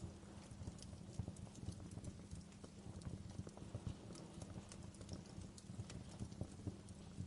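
Wood fire crackling: irregular small pops and snaps, several a second, over a low steady rumble.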